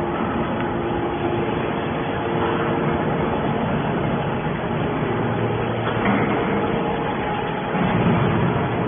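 Y81 hydraulic scrap metal baler running, a steady mechanical drone from its hydraulic power unit with faint steady tones through it.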